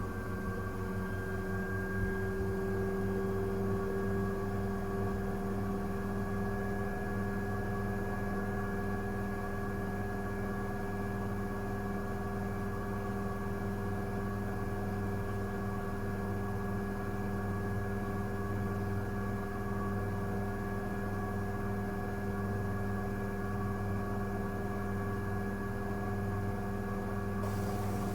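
Miele W1 WCA018 front-loading washing machine running on a 60 °C cotton programme: a steady motor hum with a whine over it, its pitch creeping up slightly in the first few seconds.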